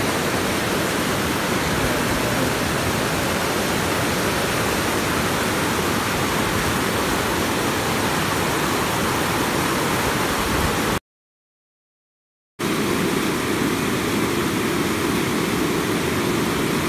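River water rushing steadily, a river running after heavy rain. The sound drops out to dead silence for about a second and a half a little past halfway, then the water noise resumes.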